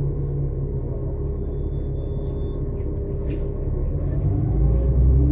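Cummins-Westport ISL-G natural-gas engine and Allison B500R transmission of a New Flyer XN60 articulated bus running with a steady low rumble. About four seconds in, the bus begins to accelerate: a rising drivetrain whine climbs in pitch as the rumble grows louder.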